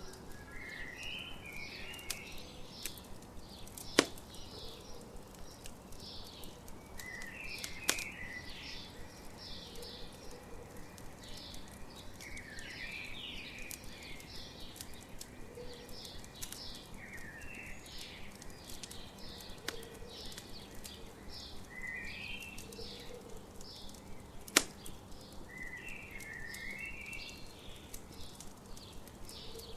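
Campfire crackling, with three sharp pops from the burning wood, under morning songbirds singing the same short phrases over and over.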